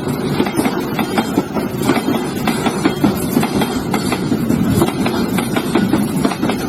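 Train wheels running over rail joints: a steady rumble with a rapid, irregular clatter of knocks.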